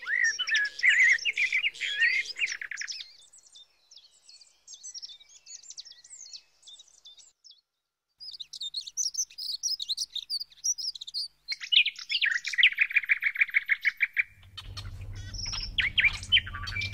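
Small birds chirping and trilling in several separate stretches, including a fast, even trill in the second half. A low steady hum joins in near the end.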